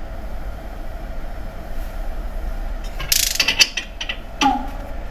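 Metal mechanism ratcheting in a quick burst of clicks lasting under a second, followed by a single sharp metallic click with a brief ring.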